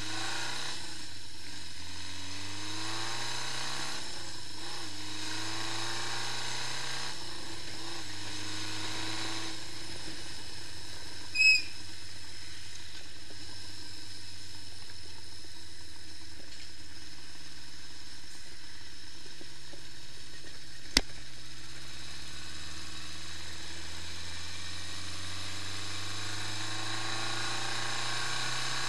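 Honda CB550 Four's inline four-cylinder engine running, its revs drifting slowly up and down. A short high chirp about eleven seconds in, and a single sharp click later on.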